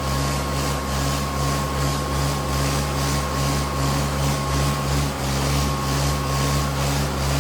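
Tractor diesel engine running steadily with a fast, even pulse, and a constant high-pitched whine above it.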